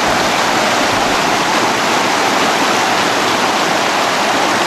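Loud, steady rush of a river's flowing water.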